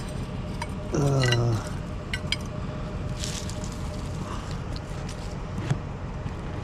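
Light clinks and clicks from scrap items being handled, over a steady low hum. About a second in, a short, louder sound falls in pitch.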